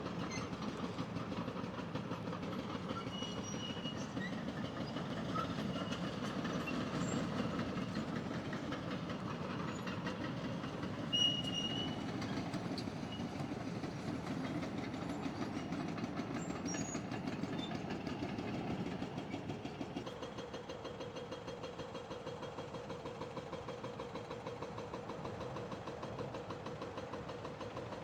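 Heavy diesel demolition machinery working, with a dense rumbling, rattling noise. About twenty seconds in it eases into a steadier engine tone.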